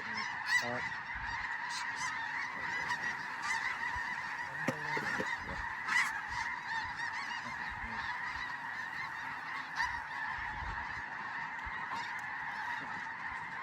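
A large flock of snow geese calling, a dense unbroken chorus of high yelping honks.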